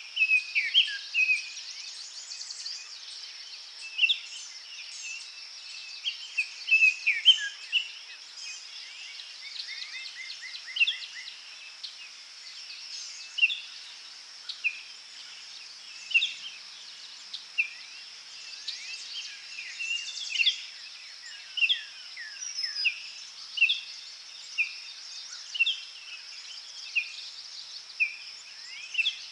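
Forest birds singing in short, sharp chirps and whistles about once a second, with a brief rapid trill partway through, over a steady high-pitched insect drone.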